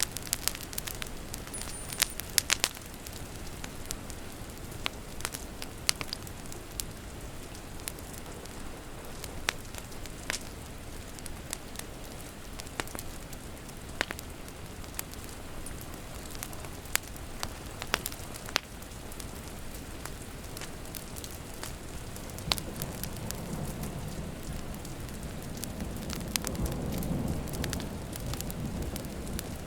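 Wood fire crackling with sharp, irregular pops over a steady hiss of rain. About two-thirds of the way through, a low rumble of thunder swells up, peaks and fades near the end.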